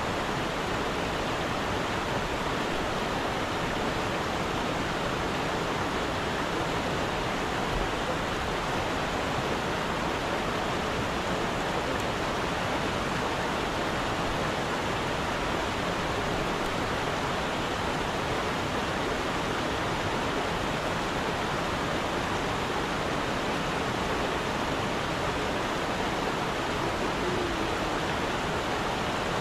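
Steady rushing of a flowing stream, an even unbroken wash of water noise.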